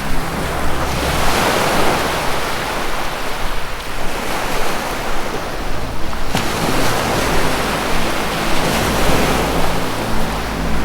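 Ocean surf washing in, swelling and ebbing several times, over a low, steady drone of sustained music tones.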